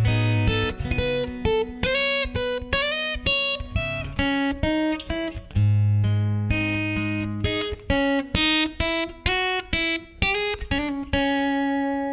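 Acoustic guitar playing an instrumental passage: a quick run of single picked notes over held bass notes, with a long ringing note near the end.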